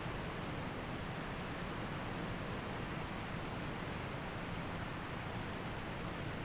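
Waterfall with its stream, water rushing steadily and evenly.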